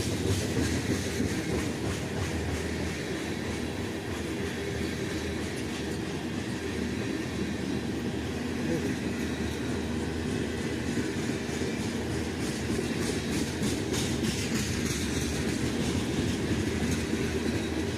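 Freight train cars rolling past with a steady rumble of wheels on rail and a clickety-clack of wheels over rail joints.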